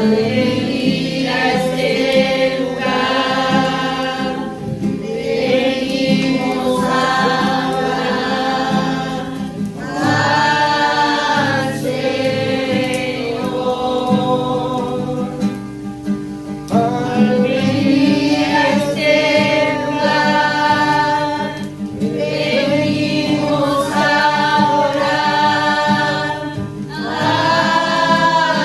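Christian worship music: several voices singing together in long held phrases over steady instrumental backing.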